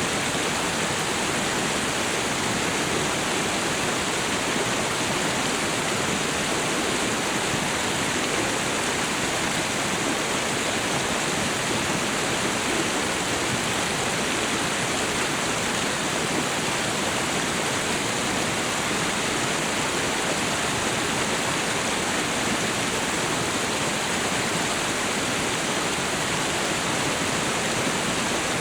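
Waterfall and river water rushing in a steady, unbroken wash of noise that does not change.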